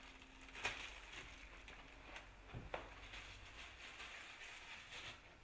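Plastic film being peeled off a microwave meal tray: faint crinkling with a couple of sharper clicks, one near the start and one about halfway through.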